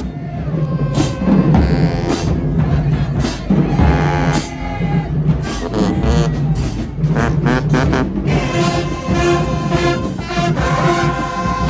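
High school marching band playing, mostly drum beats, with the brass section coming back in with sustained notes about eight seconds in.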